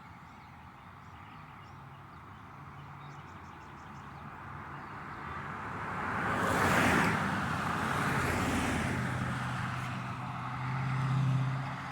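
Road traffic: a vehicle passes close, swelling to a peak about seven seconds in and fading, then a low engine hum runs steadily.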